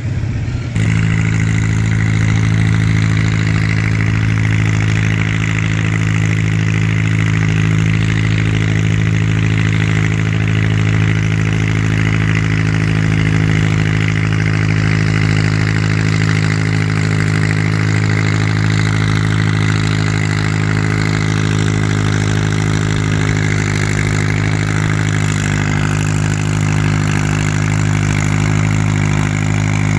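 Farm tractor engine running loud and steady at a constant speed, cutting in abruptly about a second in and holding the same pitch throughout.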